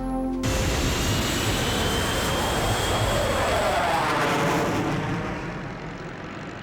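Jet aircraft passing overhead: a loud, rushing engine roar with a slowly falling whine, which cuts in suddenly and fades away over the last couple of seconds.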